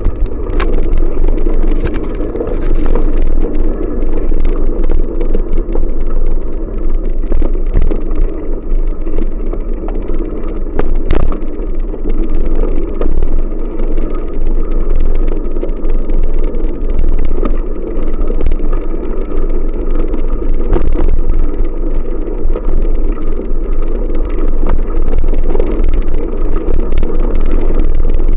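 Wind buffeting the microphone during a bicycle ride, a loud, wavering rumble with no steady engine note, and a single sharp knock about eleven seconds in.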